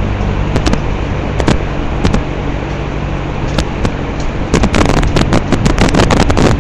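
Vintage Manning Bowman two-speed box fan running on high: a loud, steady rush of air over a low motor hum. Sharp crackles run through it, thickening into a dense crackle from about four and a half seconds in.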